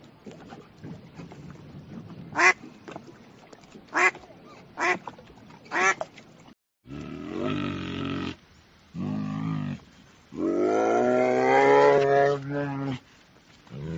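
A duck quacking four single times, spaced about a second apart. After a brief cut, a different, larger animal gives three lower, drawn-out calls; the last is about two and a half seconds long.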